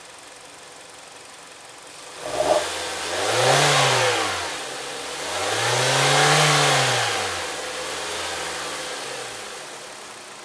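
An engine starting about two seconds in, then revved twice, its pitch rising and falling each time, before it drops back to a steady idle and stops near the end.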